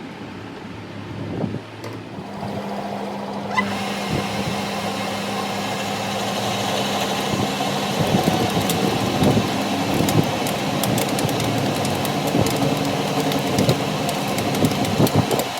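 A machine running with a steady hum. About three and a half seconds in, a loud rough hissing starts, peppered with sharp crackles.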